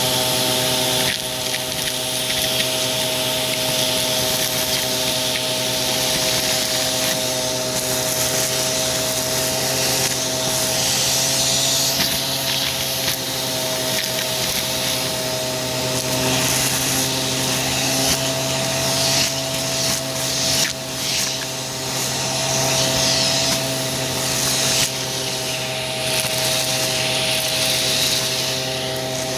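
Aspiron vacuum cleaner running with a steady motor whine and airflow hiss, with scattered crackles as crunchy debris is sucked up.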